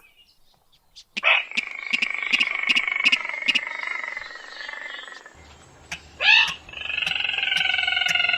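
Recorded rail and crake calls played as a hunting lure. After a quiet first second comes a long held call over sharp clicks about four a second, then a short rising call about six seconds in, then calls sliding slowly down in pitch.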